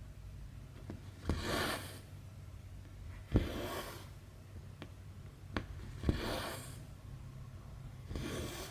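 Stitching needle popping through stamped cross-stitch fabric, each time followed by a short rasp of thread being drawn through. This happens four times, about every two and a half seconds.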